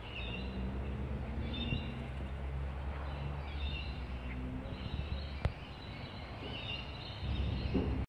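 Birds chirping in short repeated phrases over a low steady rumble, with one sharp click about five and a half seconds in.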